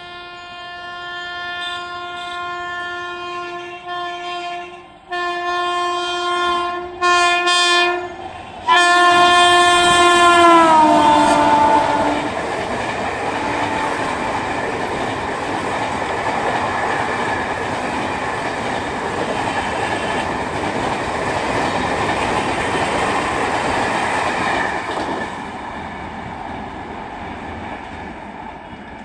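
An Indian Railways express train's locomotive horn sounds in several blasts over the first ten seconds or so, the last one sliding down in pitch as the locomotive passes at speed. Then the coaches rush past with loud wheel-on-rail noise that fades near the end.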